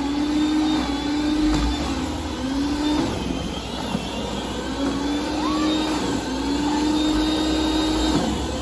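Snowblower engine running steadily with its impeller's rushing noise; the engine's pitch sags briefly several times, as if under load.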